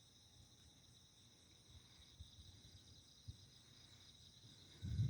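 Steady high-pitched chorus of night insects. Near the end, a loud low rumble sets in.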